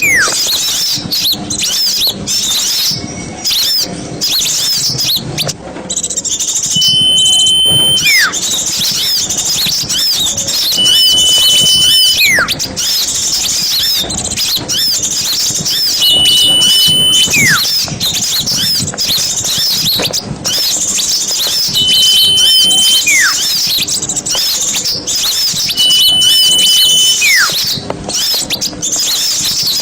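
Small songbirds chattering and twittering densely and high-pitched, in a masteran recording for training songbirds. Every few seconds a steady whistled note sounds, followed by a quick falling whistle.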